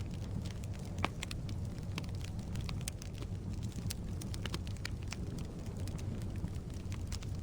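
Firewood burning in a fireplace: a steady low rumble of the flames with irregular sharp crackles and pops from the logs, one louder pop about a second in.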